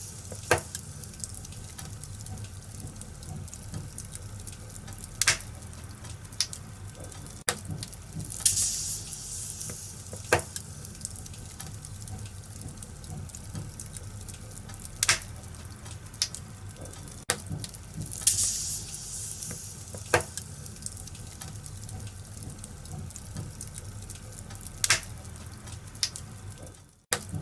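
Wood fire crackling in a fireplace: a steady hiss and low rumble, with sharp pops every few seconds and a few brief flares of higher hissing. The sound cuts out for an instant near the end.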